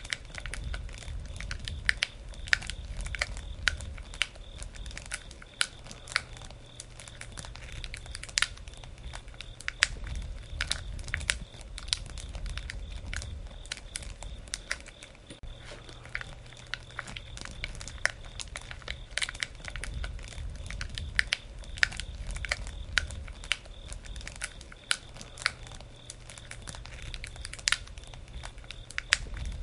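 Wood fire crackling: irregular sharp pops and snaps of burning wood over a low rumble of the flames that swells and fades.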